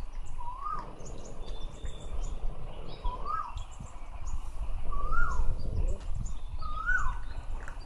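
A bird calling outdoors: a whistled note that rises and then falls, repeated four times about every one and a half to two seconds, with small high chirps around it.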